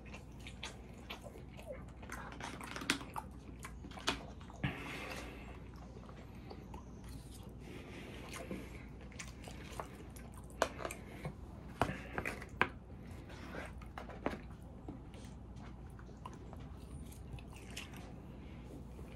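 A person chewing and eating close to the microphone, with wet mouth sounds and scattered sharp clicks and taps.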